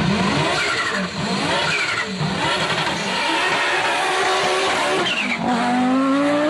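Audi Sport Quattro S1 E2 replica's turbocharged straight-five engine under hard acceleration, its pitch climbing and dropping back several times at gear changes, then rising in one long pull near the end.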